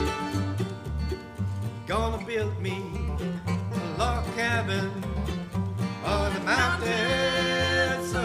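Bluegrass band playing an instrumental passage of an old-time tune on banjo and guitar over a steady bass line, with a sliding lead melody on top.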